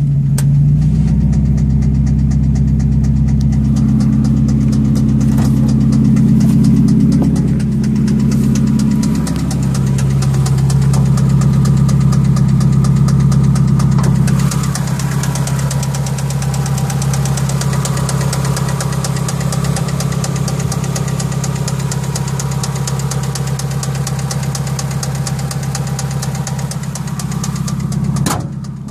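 Mazda Miata four-cylinder engine idling with a steady, rapid knock in time with the engine, which the owner concluded was rod knock rather than hydraulic lash adjuster tick.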